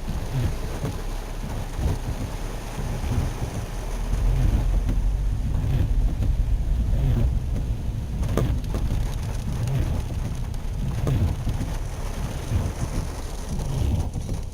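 Heavy Kona-storm rain pouring on a car, heard from inside the cabin over a steady low rumble, with a couple of short knocks midway.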